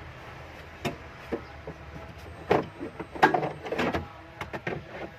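Irregular clicks and knocks, about eight spread unevenly, the loudest a little past halfway, as hard parts and tools are handled during work on a Prius hybrid battery.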